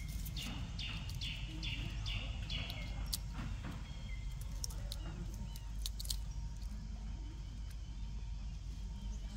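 Outdoor background with a steady low rumble, and a bird calling five times in quick succession, about two calls a second, in the first few seconds; a few faint sharp clicks are scattered through.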